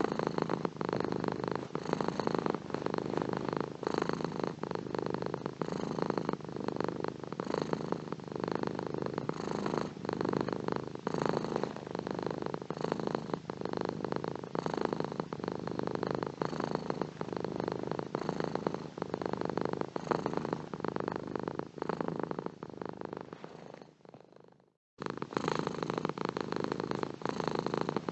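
Domestic cat purring steadily, a continuous rapid rumble that swells and eases with each breath. Near the end it fades out to silence for under a second, then starts again abruptly.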